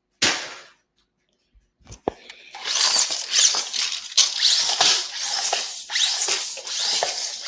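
A short sharp rustle just after the start. Then, from about two and a half seconds in, loud continuous rustling and scraping with quick squeaky sweeps.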